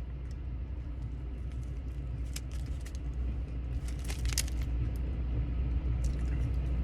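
Steady low hum of an idling car engine heard inside the cabin, with a few brief crackles about two and four seconds in.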